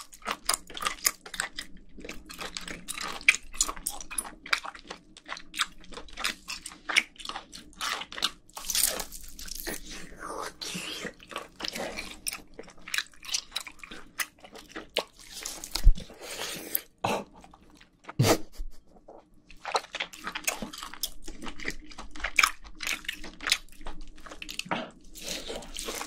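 Close-miked biting and chewing of boiled octopus tentacle: wet, irregular chewing with many small clicks and smacks. A single sharp thump, the loudest sound, about two-thirds of the way through.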